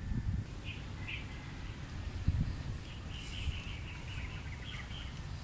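Birds chirping faintly in short calls, a few about a second in and a quick run of them around three to four seconds in, over a steady low rumble.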